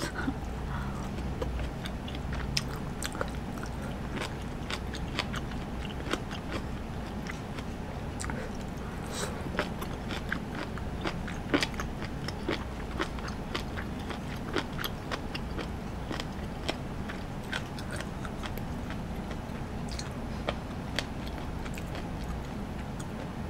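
Close-miked chewing and biting of hot pot food, with many short clicks and taps scattered through, over a steady low hum.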